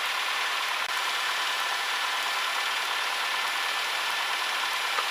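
Steady cockpit noise of a Cessna 152's four-cylinder Lycoming engine idling while the plane holds short of the runway, an even hiss-like drone with no changes.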